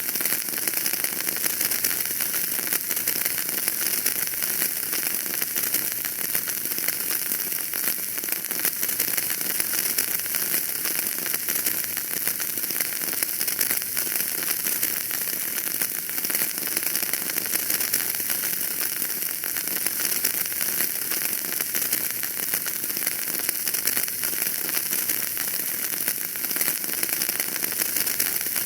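Wood fire burning in a fireplace: a steady hiss with dense, fine crackling and no pauses.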